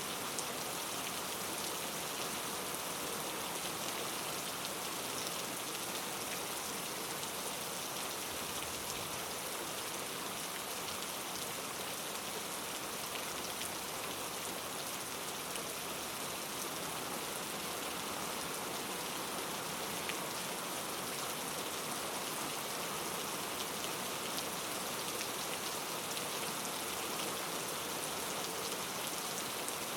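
Steady rain falling on a surface, an even continuous hiss with many fine scattered drop ticks and no change in intensity.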